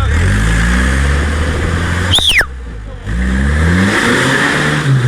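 Off-road vehicle's engine revving hard in repeated rising climbs, straining to get a stuck vehicle free. A short high falling squeal comes about two seconds in.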